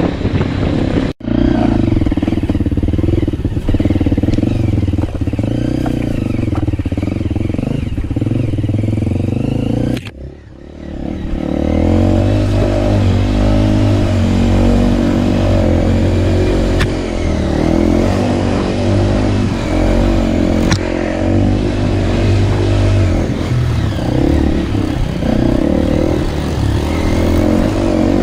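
Single-cylinder dirt bike engine running while being ridden, its pitch rising and falling with the throttle and gear changes. The sound cuts out sharply about a second in, and dips briefly around ten seconds in before the engine picks up again.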